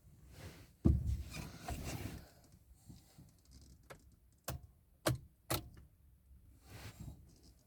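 Handling noises before the engine is started: one loud thump about a second in with a second of rustling after it, then four sharp clicks spread over the next few seconds. No engine is running yet.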